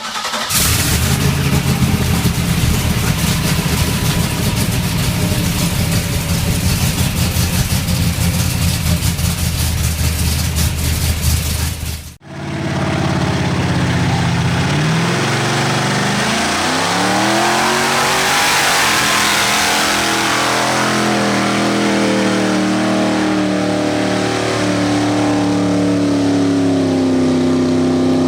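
Mud bog truck engines running hard at high revs, loud and unbroken. The sound cuts off abruptly about twelve seconds in, and an engine then revs up and down with a rising and falling pitch.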